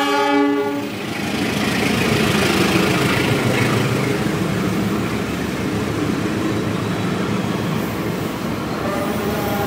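Diesel-electric locomotive's horn, cutting off about a second in, followed by the steady rumble of the locomotive and its passenger coaches rolling past along the platform. Near the end, a thin wheel squeal begins.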